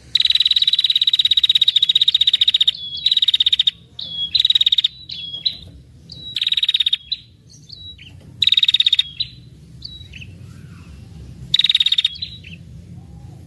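Female prenjak kepala merah (a small warbler-type songbird) giving its long, rapid 'ngetir' trill: one long trill, then a string of shorter trills with short chips between them. This is the female call used as a lure to draw in males.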